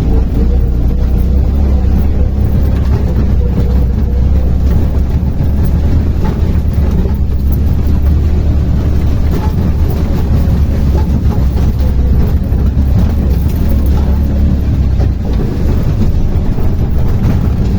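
Auto-rickshaw (tuk-tuk) on the move: a steady low rumble of its motor and road noise, with no change.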